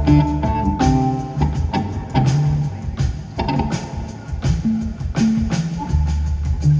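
Live band playing an instrumental passage with no vocals: a steady drum beat over bass notes and held melodic notes.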